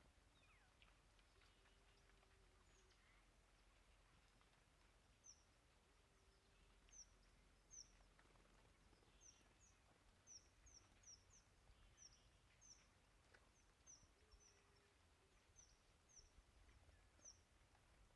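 Faint, high, short chirps of small songbirds, chickadees and tufted titmice, repeated about once or twice a second through most of the stretch, over a quiet background rumble.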